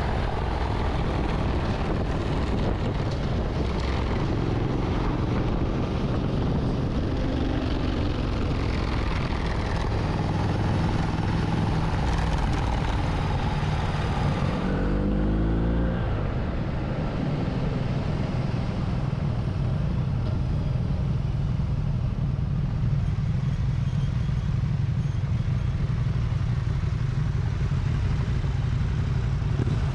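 Motorcycle engine running steadily while riding, with wind and road noise. About halfway through the engine note drops sharply for a moment, then settles into a steady run again.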